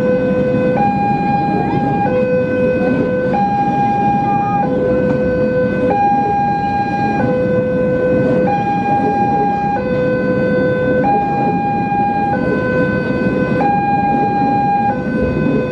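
Railway level-crossing warning alarm sounding a two-tone signal, a high and a low tone alternating evenly, each held for about a second and a quarter, which means a train is approaching and the crossing is closed. A steady rumbling noise runs underneath.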